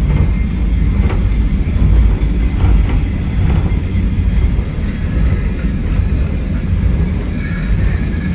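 Steady low rumble of a water-powered cliff railway car running along its track.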